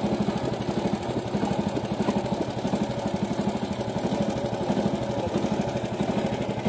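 Mini tractor's engine running steadily with a fast, even pulsing.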